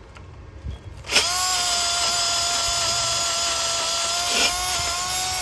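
Power drill spinning up about a second in and running at a steady high whine while drilling into metal on a Ford 351 Windsor V8, with a brief dip in speed partway through.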